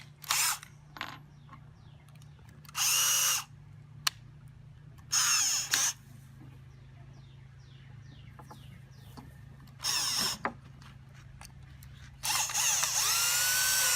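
Power drill run in five short bursts, spinning up and winding down each time, the last lasting about two seconds, as it drives screws into scrap pallet wood.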